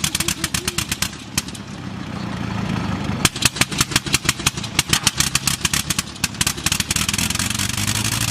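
Old piston aircraft engine cold-starting and running unevenly: loud, irregular popping firing strokes over a low steady drone. The popping thins out for a couple of seconds after the first second, then comes back dense as the engine picks up.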